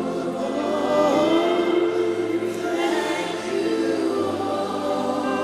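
Slow gospel worship singing: a choir and congregation holding long notes, with low sustained chords underneath that change about a second in and again near four seconds.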